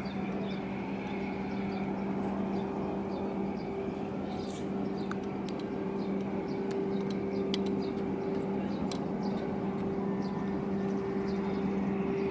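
A steady low engine hum with one held pitch, under a wash of background noise, with faint short high chirps and clicks scattered through it.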